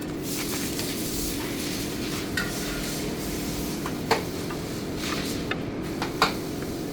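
Sharp metallic clinks of hand tools and brake parts being handled, a few scattered knocks, over a steady low hum.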